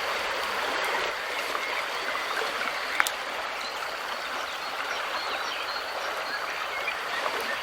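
Mountain river flowing over rocks in a steady, even rush, with faint small-bird chirps over it. A single sharp click about three seconds in.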